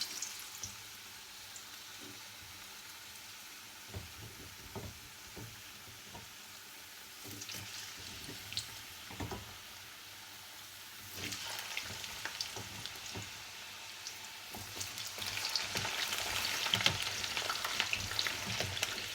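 Cubed potatoes deep-frying in very hot oil, sizzling steadily, with a few faint knocks of a utensil. The sizzle swells about eleven seconds in and grows louder again near the end.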